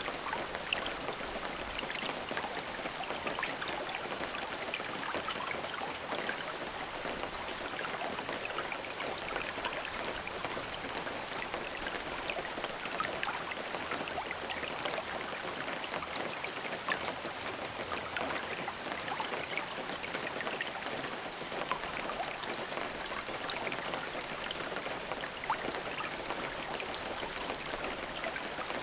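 Steady rain falling, an even hiss of many drops with scattered close drop ticks, without thunder.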